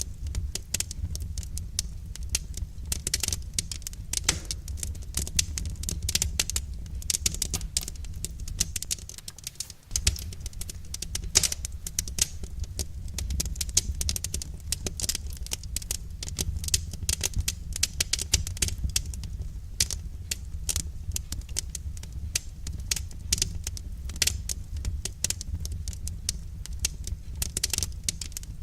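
Wood fire crackling: a dense, irregular stream of small pops and snaps over a steady low rumble, which drops away briefly about ten seconds in.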